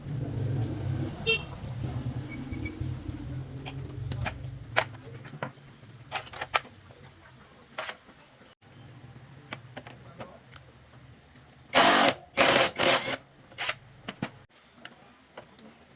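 An engine running with a steady low hum that drops away after about four seconds, with scattered clicks and knocks and a few loud clattering bangs near the end.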